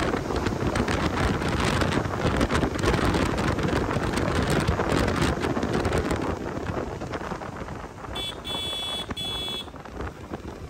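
Wind buffeting the microphone over the rumble of a moving motorcycle, easing off after about six seconds. Near the end a high beep sounds for about a second and a half.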